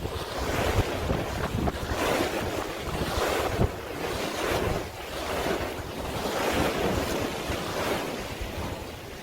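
Sea waves washing, with wind rumbling on the microphone; the noise swells and fades every second or two.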